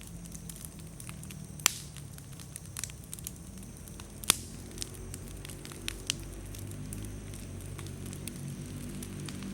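Wood bonfire burning with a steady low rush of flame, broken by crackles and several sharp pops of slightly damp firewood bursting; the loudest pop comes a little past the middle.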